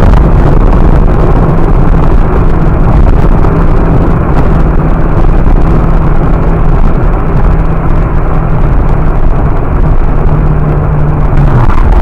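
Car engine and road noise while driving: a loud, steady rumble with an engine hum that drops in pitch near the end and then cuts off.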